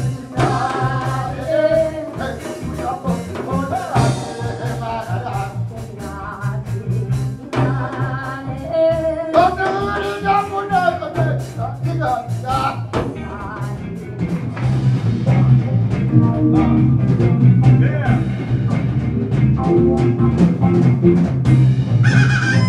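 Live Korean gugak fusion band playing: drum kit hits and a steady electric bass line under a melody that slides and bends in pitch.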